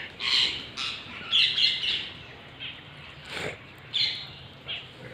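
Birds chirping and calling in a feeding flock: a string of short, high calls every half second or so, with a louder run of calls around a second and a half in.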